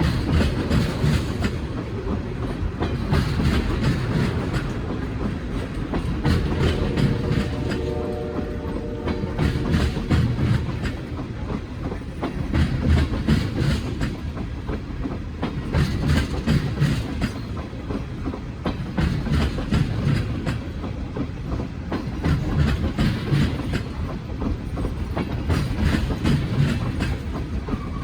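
Norfolk Southern freight train's cars rolling past steadily, wheels clicking rhythmically over rail joints under a continuous rumble. A brief ringing tone from the wheels rises over it about eight seconds in.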